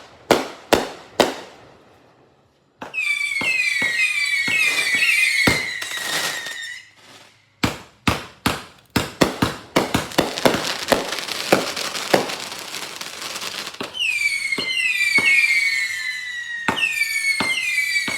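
Fireworks going off: a quick string of sharp bangs, then many overlapping whistles falling in pitch, a dense run of rapid cracks and pops in the middle, and more falling whistles with a few bangs near the end.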